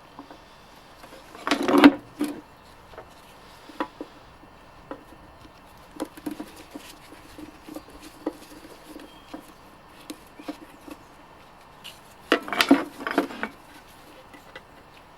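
Clatter and light knocks of parts being handled while a parts washer is stripped down, with two louder bursts of rattling, about two seconds in and near the end.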